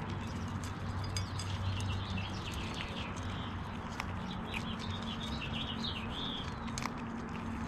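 Small birds chirping in quick twittering runs, about a second in and again mid-way, with scattered sharp clicks of ground squirrels cracking and chewing seeds at a feeder, over a steady low hum.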